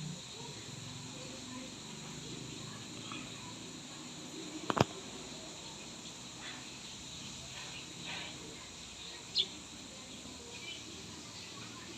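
Steady outdoor background noise with faint scattered chirps, broken by a sharp click about five seconds in and a short high chirp a few seconds later.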